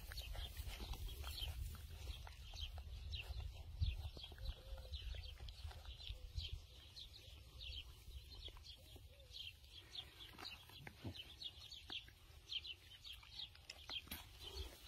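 Small birds chirping, many quick high chirps falling in pitch, over a low rumble of wind on the microphone.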